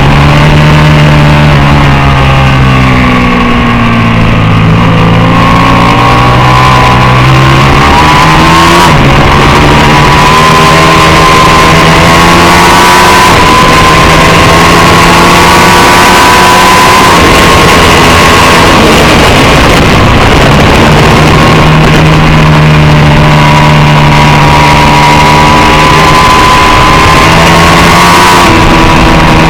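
750-class superbike engine running loud at high revs, the pitch dropping and climbing again several times as the rider shifts down and accelerates back up through the gears.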